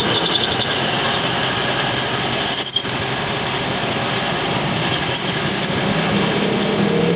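Metal lathe running with a cutting tool on metal, a steady grinding noise carrying a high squealing whine. It dips briefly a little under three seconds in.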